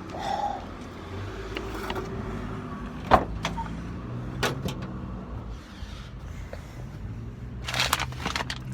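Pickup truck engine idling with a steady low hum, while things are handled in the cab: a few knocks and clunks, the loudest about three seconds in.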